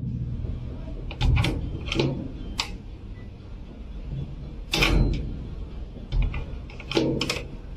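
Several irregular knocks and bangs, some in quick pairs, over a low steady rumble.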